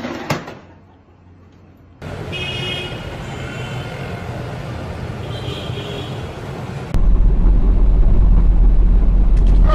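Road vehicle noise in clips spliced together. It is quiet at first. About two seconds in comes a steady noise with faint high tones, and about seven seconds in a much louder low rumble.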